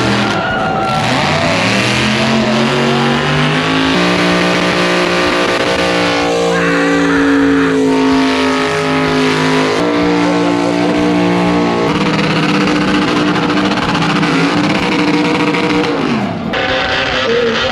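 High-performance car engine held at high revs during a burnout, its pitch holding steady for several seconds at a time and stepping up and down a few times, over the hiss of spinning tyres.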